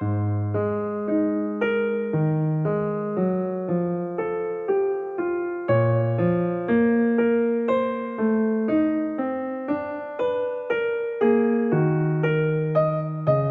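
Background piano music: a gentle melody of evenly paced notes, about two a second, over low bass notes.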